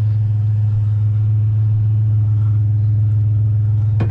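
Truck engine running steadily at idle, a loud, even low hum. A sharp knock comes right at the end.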